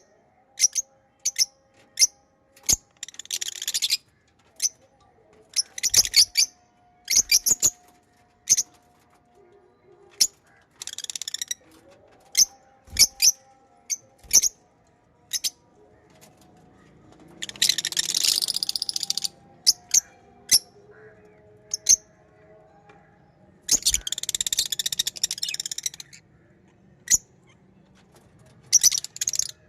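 Pet lovebirds chirping: many short, sharp, high-pitched chirps at uneven intervals, with two longer bursts of rapid chattering, one in the middle and one about two-thirds of the way through.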